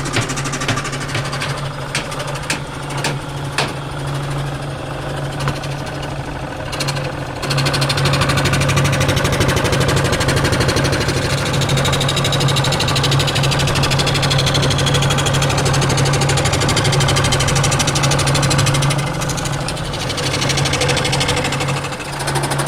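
Woodworking machine running with a steady hum, with a few sharp knocks in the first seconds; about seven seconds in it gets louder and busier, as when it starts working the wood, easing briefly near the end.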